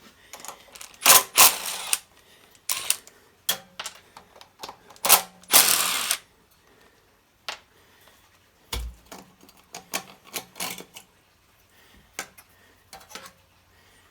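Hands and tools working on a small petrol generator: irregular clicks, knocks and clatter of metal and plastic parts, with two short scraping rushes early on and a dull thump about nine seconds in.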